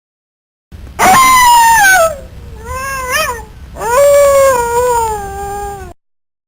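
An animal howling: three drawn-out calls, the first loud and sliding down in pitch, a short one that rises and falls, then a long, slowly falling howl that cuts off abruptly.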